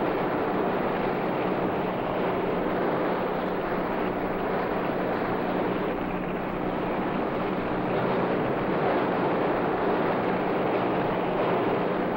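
Steady rushing noise of open water and wind with a low, even engine hum, as from a motorboat running at sea.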